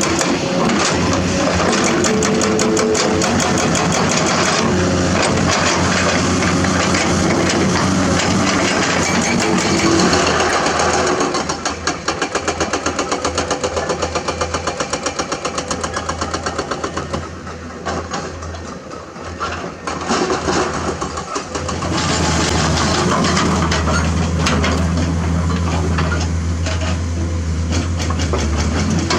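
Komatsu hydraulic excavator's diesel engine running under load, with a steady low hum and frequent clicks and knocks. About a third of the way in the sound pulses and drops to a lower level for several seconds, then comes back to full strength.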